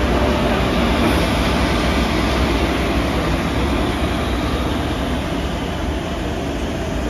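WAG-7 electric locomotive of a goods train passing close by, followed by the wagons behind it rolling over the rails. A steady, loud rumbling rush that eases a little after about five seconds, once the locomotive has gone by.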